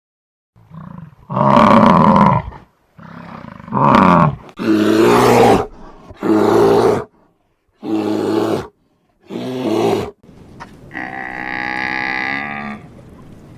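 Bison bellowing: six deep, rough calls of about a second each, separated by short pauses. Near the end comes one longer, steadier call of about two seconds.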